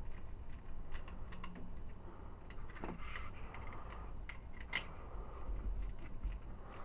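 Hard plastic parts of a Transformers figure being handled and fitted together: irregular small clicks and taps, with one sharper click near five seconds in.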